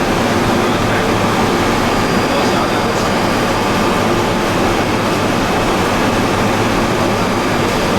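Steady, loud running noise of plastic pelletizing plant machinery, an even mechanical din with a low hum underneath.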